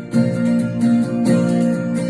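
Guitar strumming chords as song accompaniment, with no singing.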